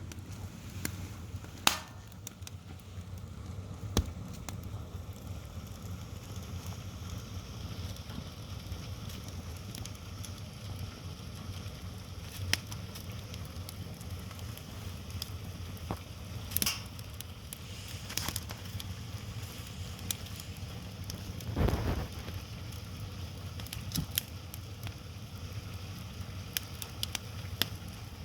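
Wood fire burning with scattered sharp crackles and pops over a steady low rumble, and one louder, duller noise about three quarters of the way through.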